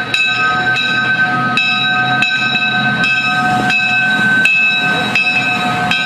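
Railroad locomotive bell ringing steadily, struck about every 0.7 seconds, its ringing tones sustained between strokes, over the low rumble of the train.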